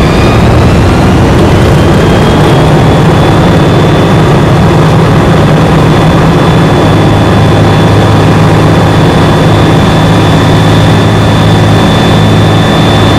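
Engine and propeller of a Comco Ikarus C42 ultralight aircraft running steadily, loud and droning, with a slight drop in pitch in the first second before settling.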